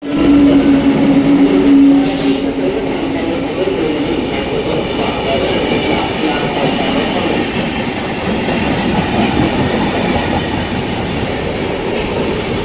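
Express train running, with one steady low tone, the loudest sound, held for about the first two seconds. Then a continuous rumble of the moving coaches.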